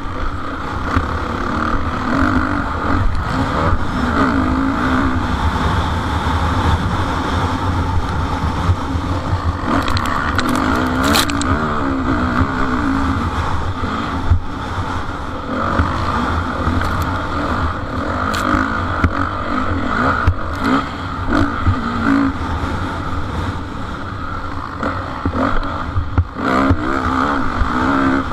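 Motocross motorcycles racing, their engines revving up and down with the throttle, over a heavy low rumble. A few sharp clicks come about ten seconds in.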